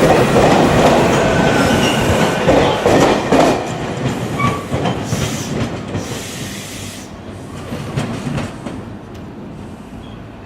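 Electric commuter train rolling along the platform track, wheels clacking over rail joints with a few brief squeals. It is loud at first and fades steadily.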